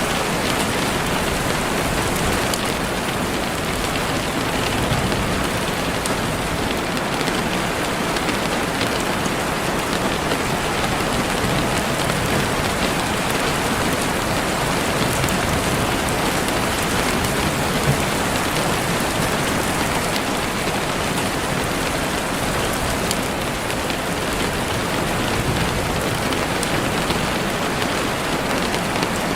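Heavy rain falling steadily on leaves and the forest floor, a dense even hiss with scattered drop patter.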